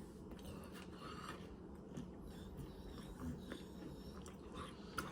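Faint mouth sounds of chewing a bar of milk chocolate with graham cookie pieces and marshmallow bits, with small soft clicks of the mouth.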